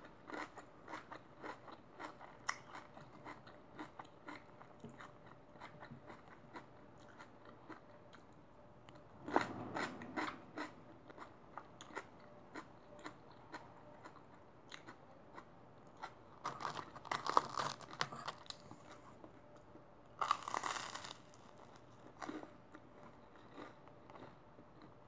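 Close-up chewing of fresh raw salad vegetables: crisp crunching and wet mouth sounds, with three louder bouts of crunching.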